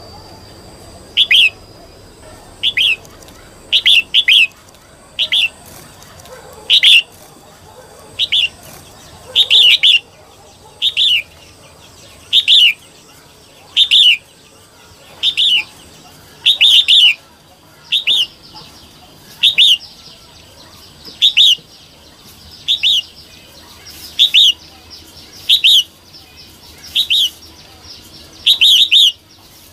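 Female red-whiskered bulbul calling: short, sharp downward-sweeping notes, singly or in quick pairs, repeated about every one and a half seconds. This is the female call that keepers play to rouse other bulbuls.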